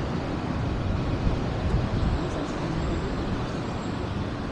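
A car's engine running close by over steady street traffic noise.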